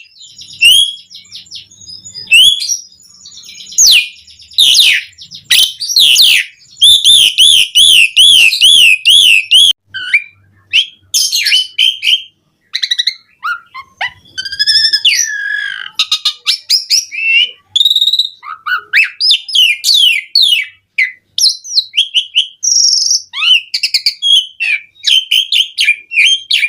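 Asian pied starling (jalak suren) in full song: an unbroken, varied run of loud whistles, squeaky notes and chattering phrases, with a fast warbling trill about a third of the way in. This is the excited, pumping 'gacor' song full of imitated phrases ('isian') used as a lure to set other starlings singing.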